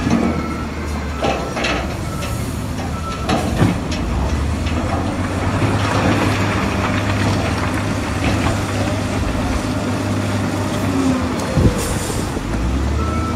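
Heavy earth-moving machinery working stone: a diesel engine running steadily under scattered clanks and knocks of rock and steel, with sharper knocks about three and a half seconds in and near the end.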